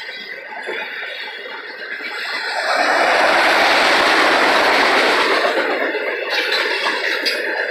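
Freight train of autorack cars rolling past, with steady wheel-on-rail noise. The rolling noise swells to its loudest about three seconds in and eases after about five, with a few sharp clicks near the end.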